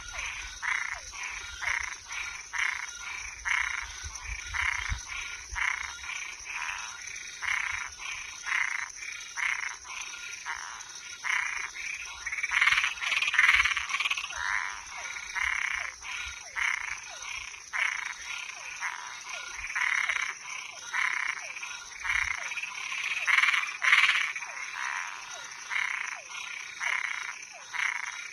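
Night chorus of frogs and tree frogs at a pond: short calls repeating about twice a second, swelling louder twice, over a steady high-pitched trill.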